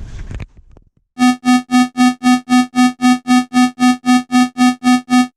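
Synthesized electronic beeping: about sixteen identical pitched beeps, about four a second, loud and clean with no background noise between them.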